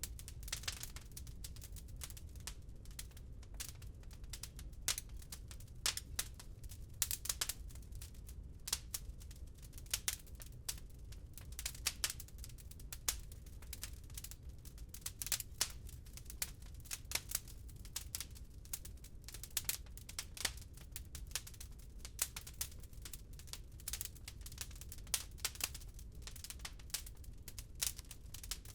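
Wood fire in a fireplace crackling, with irregular sharp pops and snaps, several a second, some much louder than others. A steady low rumble runs beneath.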